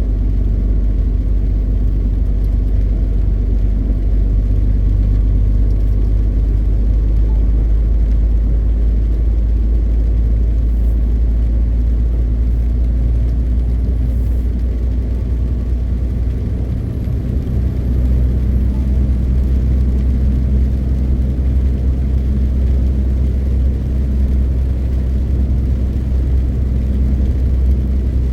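MAN TGX 520 truck's six-cylinder diesel engine running steadily under way, a deep rumble with road noise. About two-thirds of the way through, the engine note dips and shifts briefly before settling again.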